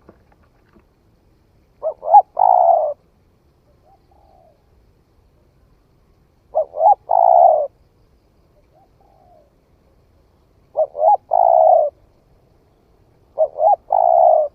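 Spotted dove cooing, a young bird just coming into song: four song phrases about four seconds apart, each two short coos followed by a longer drawn-out one, with faint softer notes between them.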